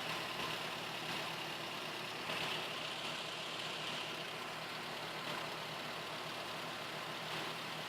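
Suzuki G16A 1.6-litre four-cylinder engine idling steadily.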